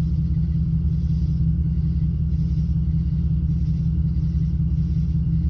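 Jaguar XJR's supercharged V8 running steadily with a low, even rumble. The engine has an intermittent misfire that the owner traces to a faulty cylinder 4 fuel injector.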